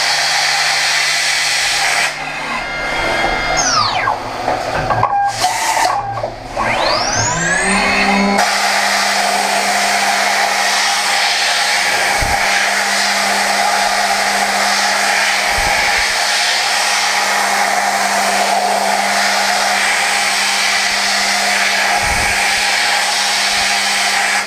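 Okuma GENOS M560V vertical machining centre: its spindle whine drops in pitch and then climbs back up over a few seconds. It then runs at a steady high speed with a steady hiss of high-speed milling in 4140 steel.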